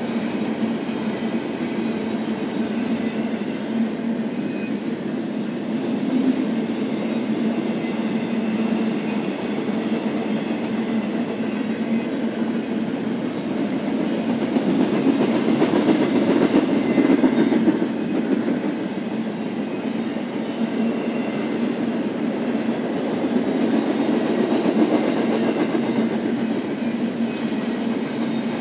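BNSF double-stack intermodal freight train rolling past on the rails, the cars going by steadily. It gets louder for a few seconds about halfway through.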